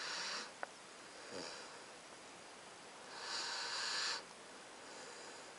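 Nine-week-old Alaskan Malamute puppy snoring: hissy, breathy snores, a louder one at the start and another about three seconds in, with fainter breaths between. A small click about half a second in.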